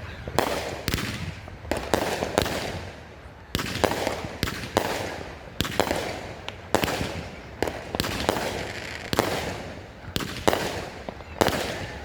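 A 200-gram Raccoon Fireworks "Raging Willow" consumer cake firing its shots in quick succession, roughly one every half second to a second. Each shot is a sharp report followed by a short fading tail.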